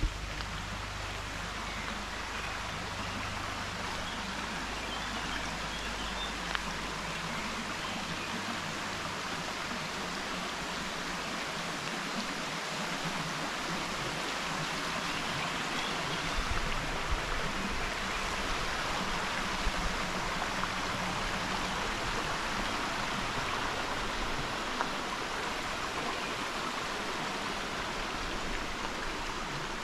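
Steady rush of running water from a stream, an even unbroken hiss with a few faint ticks over it.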